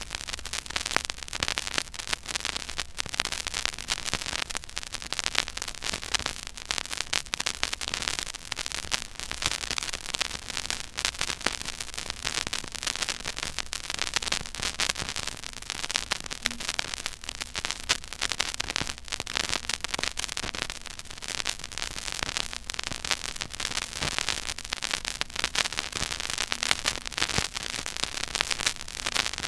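Stylus playing a silent groove on a 12-inch vinyl record: dense surface crackle and pops over steady hiss and a faint low rumble.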